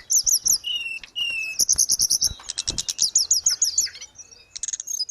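Tledekan gunung (hill blue flycatcher) singing a fast, varied song of high chirps, trills and short whistled notes, with a brief pause about four seconds in.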